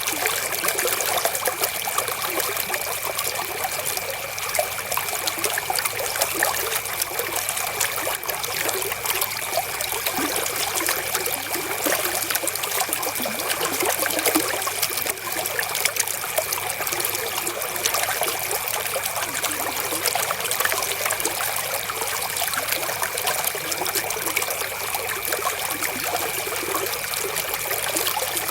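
Flowing river water trickling and splashing steadily, an unbroken rush of small splashes.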